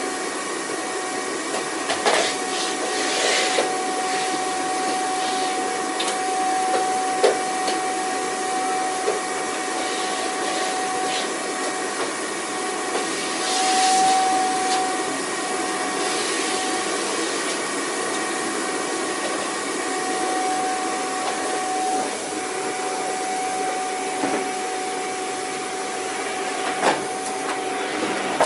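Vacuum cleaner running steadily: a constant rushing hiss with a steady motor whine. A few brief knocks and scrapes are heard over it.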